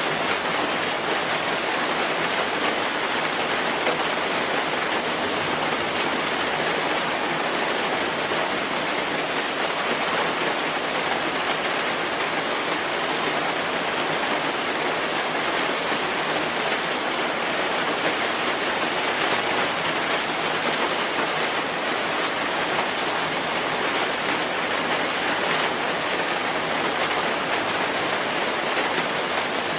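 Steady rain falling, a constant dense hiss of drops with faint scattered patters.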